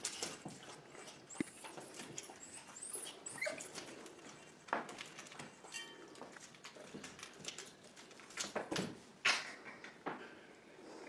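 A dog's sounds: a few short high squeaks among irregular clicks and knocks.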